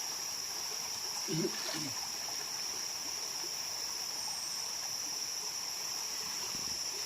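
Running stream water under a steady, high-pitched insect drone, with a brief human voice sound about a second and a half in.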